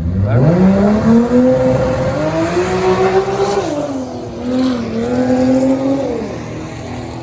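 Drag race car launching and accelerating hard down the strip, its engine note climbing steeply in pitch. The pitch drops sharply about three and a half seconds in at a gear change, climbs again, then falls and fades near the end as the car pulls away.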